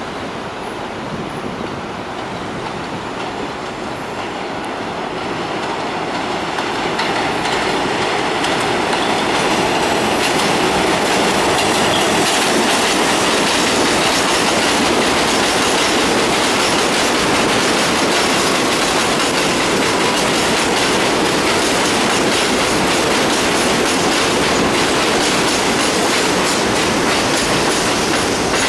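A New York City Subway R62A train on the 7 line rolling into the station. It grows louder over roughly the first ten seconds as it approaches, then runs steadily loud as the cars go by.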